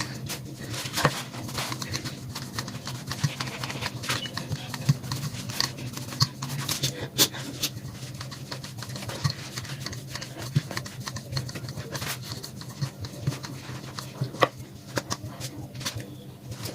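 Kitchen hand work: scattered light clicks and taps over a steady low hum.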